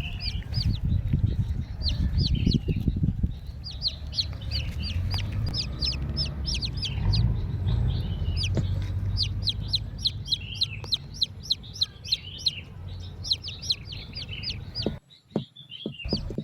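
Small birds chirping: many short, high, falling chirps in quick succession, over a low rumbling noise that drops away about fifteen seconds in.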